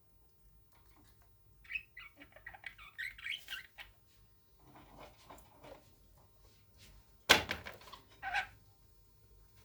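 Pet budgerigar chirping in short high bursts, with scattered softer sounds. About seven seconds in there is a single sharp knock, the loudest sound, and a smaller one just after it.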